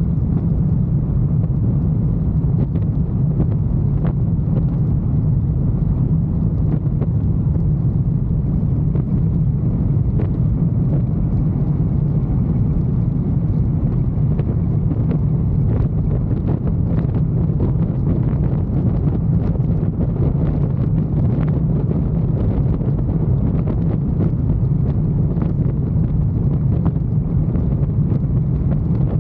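Motorcycle running at a steady cruising speed: a continuous low engine and road rumble with no revving, mixed with wind buffeting the microphone.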